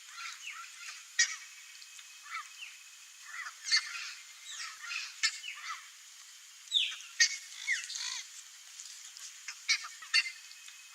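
Turquoise-fronted parrots (Amazona aestiva) calling: an irregular string of short, loud calls, some overlapping. The loudest come about a second in, near four and five seconds, around seven seconds and near the end.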